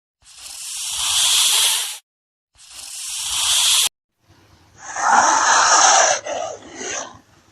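Snake hissing: two long hisses, each swelling louder before cutting off, then a rougher, broken hiss about four seconds in.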